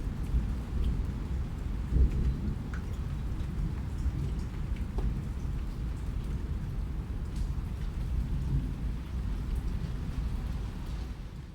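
Steady rain, heaviest at the low end, with scattered sharper drop taps; a brief louder swell comes about two seconds in, and the sound fades down at the very end.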